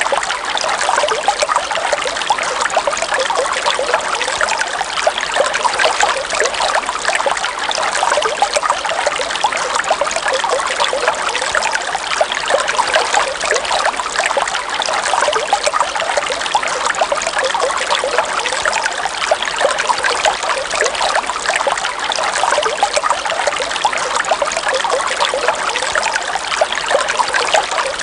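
River water trickling steadily over a shallow bed, with an even, unbroken flow.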